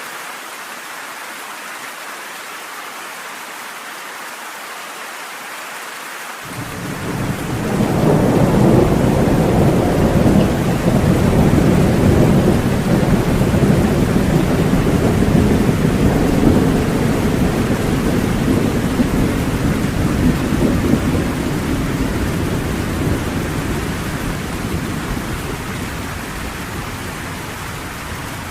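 Steady rain falling, with a long roll of thunder that starts about six seconds in, swells within a couple of seconds and slowly dies away under the rain.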